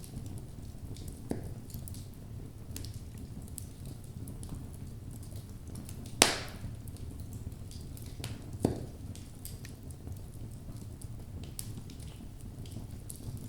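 Wood logs burning in a fireplace: a steady low rumble of the flames with many small crackles, and a loud sharp pop about six seconds in, followed by a smaller pop a couple of seconds later.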